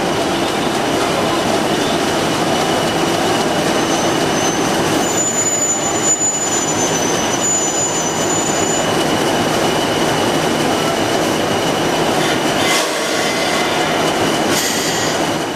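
Diesel-hauled train running by at close range, a loud steady rumble. A thin high wheel squeal sounds twice near the middle.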